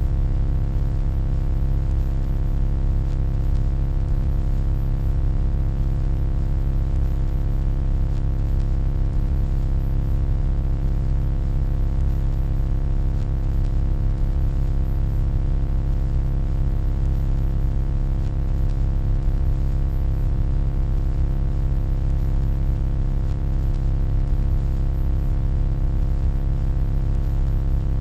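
Steady electronic hum: a deep low drone with a stack of fainter steady tones above it and a light hiss, unchanging throughout.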